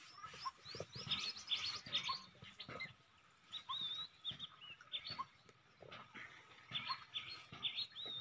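Small birds chirping: clusters of quick, high, repeated chirps and short rising calls.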